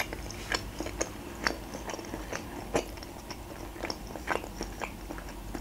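Close-miked chewing of a soft meat-filled dumpling: scattered small wet mouth clicks and smacks at an uneven pace.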